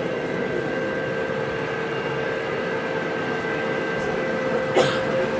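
Model train running with a steady whine and hum, and one sharp click near the end.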